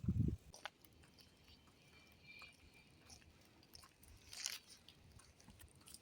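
Faint close-up chewing and crunching, with scattered small clicks. There is a short low thump right at the start and a louder crunch about four and a half seconds in.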